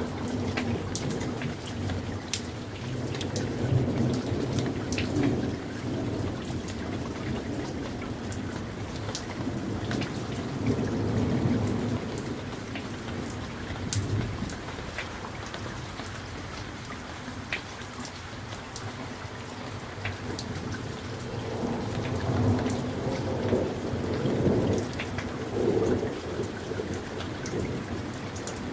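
Summer thunderstorm: steady rain with sharp ticks of individual drops landing close by, under several low rolls of thunder that swell and fade, the longest near the end.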